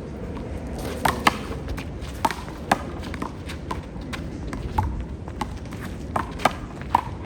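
Small rubber handball smacking against the wall and bouncing on the court: a series of sharp, irregularly spaced pops, the loudest a little over a second in and again near the three-second mark.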